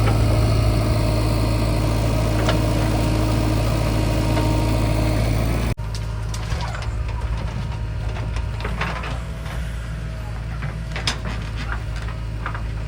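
Heavy diesel engine running steadily with a low drone. About six seconds in the sound cuts abruptly to a quieter run with scattered knocks and rattles.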